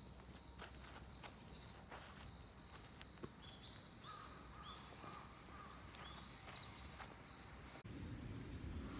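Faint outdoor ambience with many short, high, partly rising calls from wild creatures scattered throughout, and a few light clicks. Near the end it cuts to a louder low rumble.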